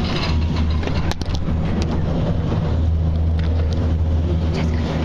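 Steady low hum of a motor vehicle's engine and road noise, with a few sharp clicks about a second in and near the end.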